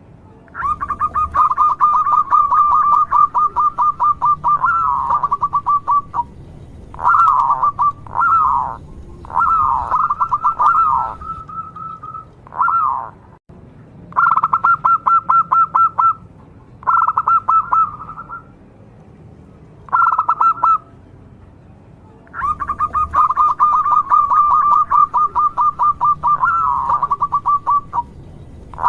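Local zebra dove (perkutut) singing: bouts of rapid, pulsed cooing notes, the first and last several seconds long and the ones between shorter, separated by brief pauses.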